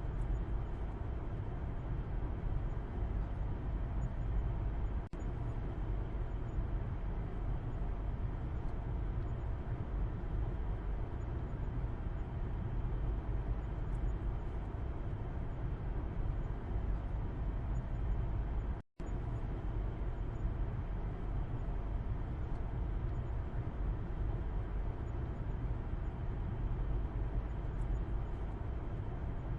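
Road noise inside a moving car, heard from the back seat: a steady low rumble of tyres and engine with a softer hiss above it. It cuts out to silence for a split second about two-thirds of the way through.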